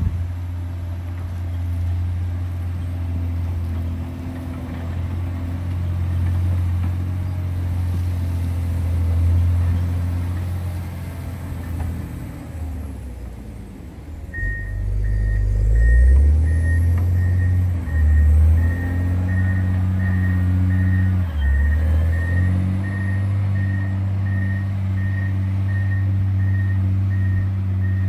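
Diesel engine of a John Deere 670 GP motor grader running under load, dropping off briefly about halfway and then surging heavily several times. From about halfway a reversing alarm beeps steadily and evenly as the grader backs up.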